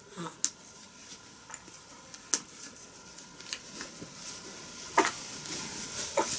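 Soft handling noise: faint rustling with about five short, sharp clicks spread over a few seconds, the loudest a little after two seconds in.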